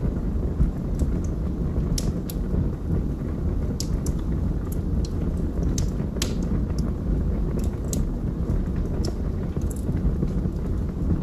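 Log fire burning in a fireplace: a steady low rumble of flames with irregular sharp crackles and pops from the burning logs, a few a second.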